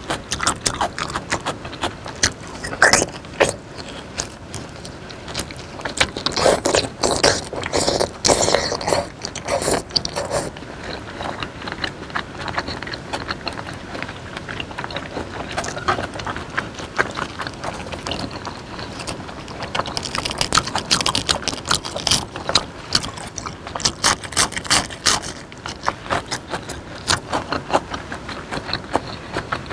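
Close-miked chewing of raw beef slices dipped in chili sauce: many uneven mouth clicks and smacks, coming in busier clusters with calmer stretches between.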